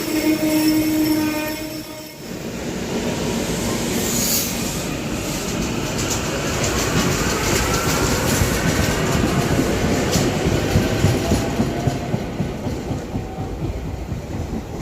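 Passenger train horn holding a chord that stops about two seconds in, then the train running past with wheels clicking over the rail joints and a faint rising whine, easing off near the end.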